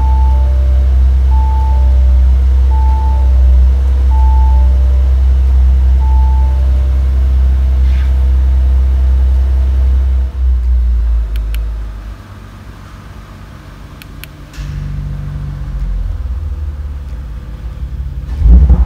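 Audi RS4's twin-turbo V6 idling with a steady low rumble in the cabin, under a two-tone warning chime that repeats about every second and a half for the first seven seconds: the car's drive-system-active alert. A few light clicks follow; the rumble drops away for a couple of seconds just past the middle, then picks up and swells near the end.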